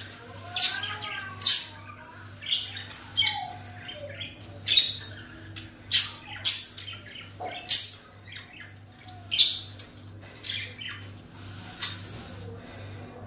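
Birds chirping and squawking in short, sharp calls about once a second, over a steady low hum.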